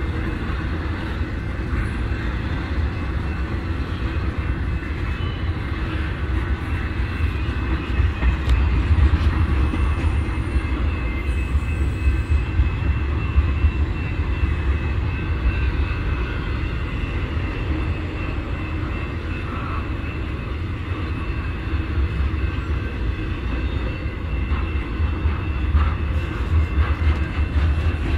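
BNSF intermodal freight train's trailer-laden flatcars rolling past: a continuous low rumble of steel wheels on the rails, swelling a little now and then.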